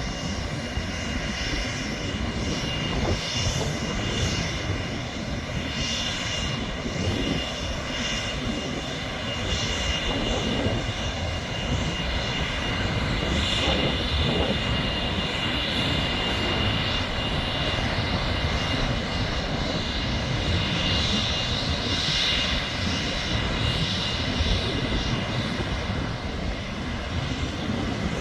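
Airbus A330 airliner's jet engines running steadily, a continuous rushing noise with a high whine.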